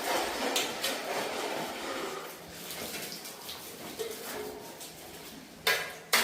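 Construction hand-tool work: an uneven scraping and rubbing, with two sharp knocks close together near the end.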